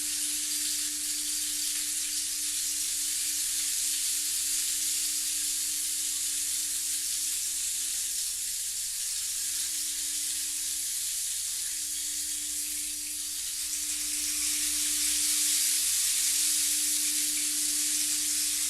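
A singing bowl holding one pure, steady low tone that swells and fades slowly, over a steady hiss.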